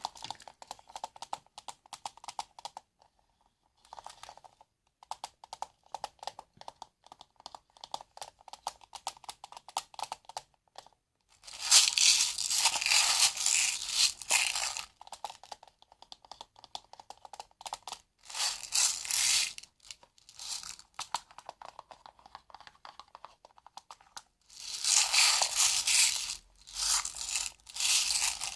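Close-up handling of small objects: quick runs of light clicks and crinkling, broken twice by longer, louder rustling and crinkling stretches lasting a few seconds each.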